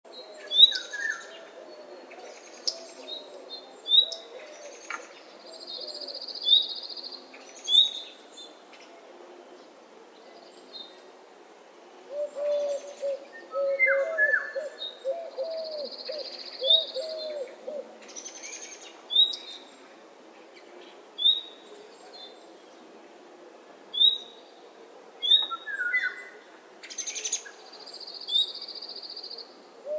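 Dawn bird chorus: small birds chirp with short, high notes every second or two and give an occasional buzzy trill, while a low-voiced bird calls in runs of hooting notes at the start and again about halfway through.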